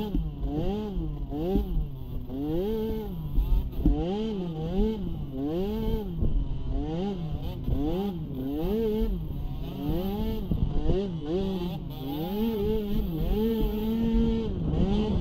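Small youth (pee wee) racing ATV engine revving up and falling back over and over, a little faster than once a second, as the throttle is worked. Near the end the engine pitch holds steadier for a few seconds.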